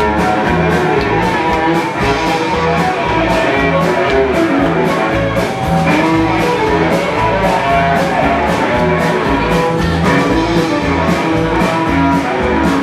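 Rock band playing an instrumental passage: drums on a steady beat under a strummed, amplified string instrument, with no singing.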